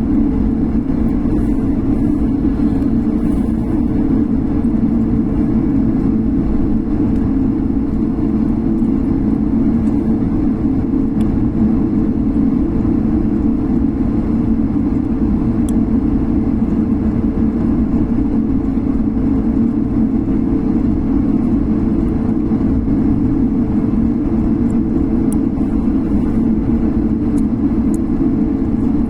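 Airliner cabin noise: a steady, even drone of the jet engines and airflow with a constant low hum, and a few faint rattling ticks.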